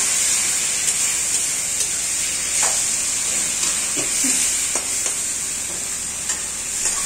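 Onion-tomato masala sizzling in a steel kadhai as a spoon stirs in spinach purée, with a steady hiss and a few light scrapes and taps of the spoon against the pan.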